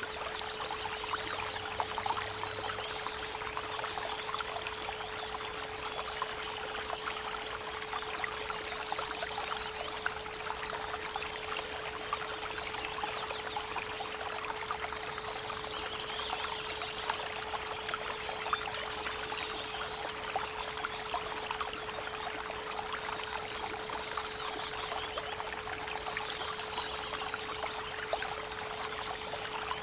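A steady 432 Hz pure tone held over a babbling creek, with birds chirping now and then and giving short rapid trills about five seconds in and again near twenty-two seconds.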